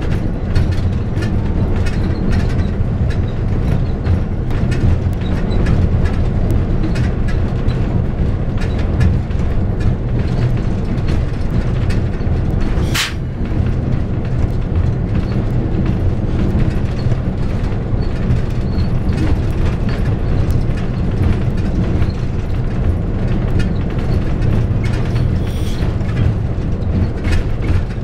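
Train running along jointed track: a steady low rumble with a stream of small clicks from the wheels crossing the rail joints. A short hiss cuts through about halfway through.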